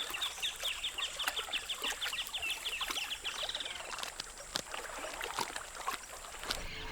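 An animal calling in a fast trill of short high chirps, about ten a second, that fades out some three seconds in, over scattered soft clicks.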